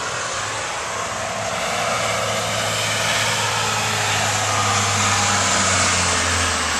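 A motor vehicle passing on the road, a low engine hum with tyre noise that builds to its loudest about five to six seconds in and then starts to fade.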